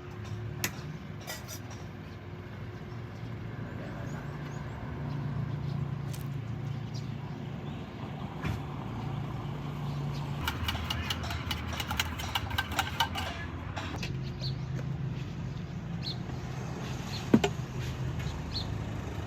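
Steady hum of road traffic, with scattered clicks, a run of rapid clinking and clattering about halfway through, and one sharp knock near the end.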